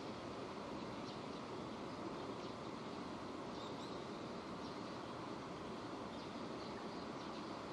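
Steady rain falling, an even hiss with no change in strength, and faint short high chirps or ticks here and there.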